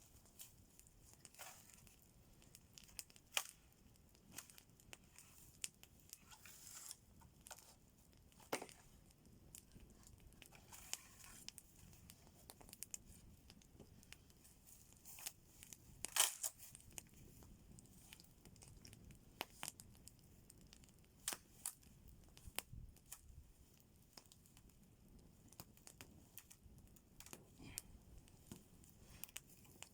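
Faint campfire crackling: irregular sharp pops and snaps, with one louder snap about 16 seconds in.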